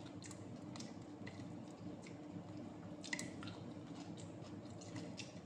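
Close-up eating sounds: chewing and wet mouth smacks while eating smoked fish and rice by hand, with scattered short clicks, one louder about three seconds in.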